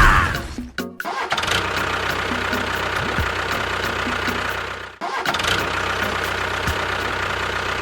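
An engine starts and runs steadily with an even beat. It cuts out briefly about five seconds in and starts up again.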